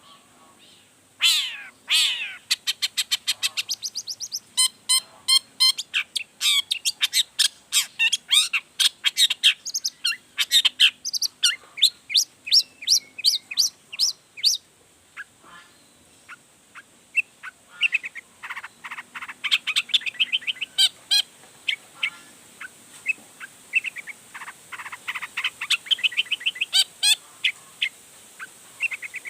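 Long-tailed shrike (cendet) singing a fast, varied song: long runs of rapid, sharp, chattering notes mixed with sweeping whistled phrases that rise and fall.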